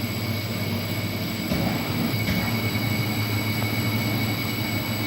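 Membrane water-filtration plant during a backwash cycle: steady machinery hum with a thin high whine over a rushing noise, as the water drains down in the membrane tank.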